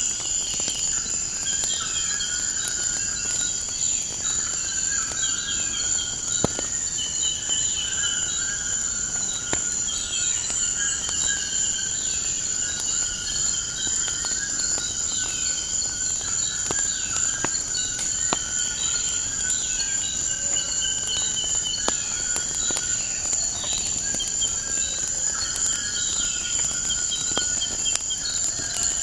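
A steady high insect trill, with birds calling over and over in short falling notes and scattered pops of a crackling wood fire.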